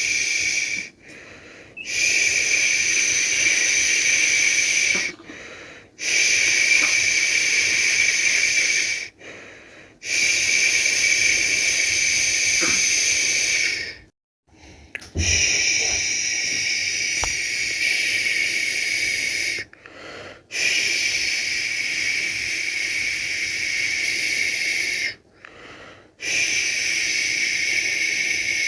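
A person's voice making long, steady 'shhh' shushing sounds to soothe a baby, each lasting about four seconds and broken by a short pause for a breath, about six times.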